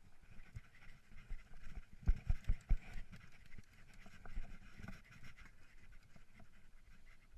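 Mountain bike riding over rough singletrack: irregular knocks and thumps as the bike jolts over bumps, clustered about two seconds in, with the rider breathing hard.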